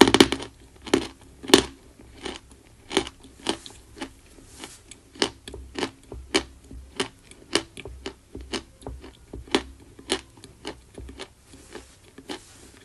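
Chalk being bitten and chewed close to the microphone: a run of sharp, dry crunches about two a second, the loudest near the start.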